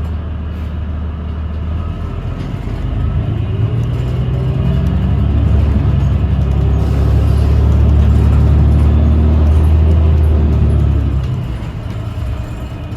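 Low drone and a rising whine from a 2017 New Flyer XDE40 diesel-electric hybrid bus heard from inside as it pulls away. The sound builds over several seconds, holds loudest for a few seconds, then eases off near the end. It is an unusual drive sound that the rider suspects comes from the transmission or a loose screw or panel rather than the engine.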